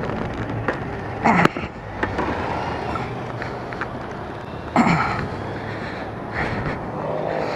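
Road traffic noise: vehicle engines running with a steady low hum and a haze of passing traffic. Two short, louder sounds come about a second and a half and about five seconds in.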